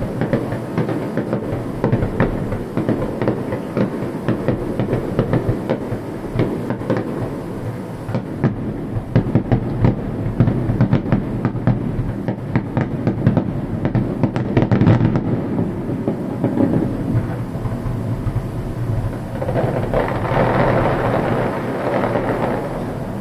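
Fireworks going off in a continuous barrage of booming bursts and crackles, thickening into a rapid run of sharp bangs about halfway through.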